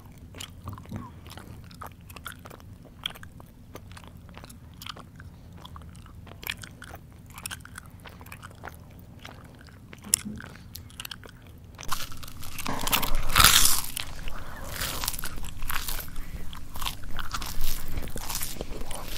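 Close-miked mouth chewing: soft, scattered wet clicks and smacks at first, then from about twelve seconds in much louder, dense crunching of crisp food such as chips.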